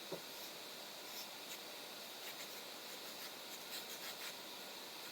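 Faint pencil strokes scratching on paper: a few short, light sketching strokes.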